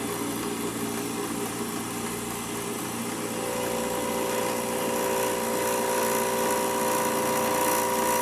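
Milling machine running, its end mill taking a slow cut across the edge of the tube: a steady mechanical hum and whine. About halfway through, a higher ringing tone comes in and grows louder as the cut goes on.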